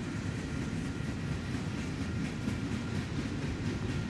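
Freight train cars rolling steadily past: a low rumble of steel wheels on rail with faint repeated clicks at the rail joints.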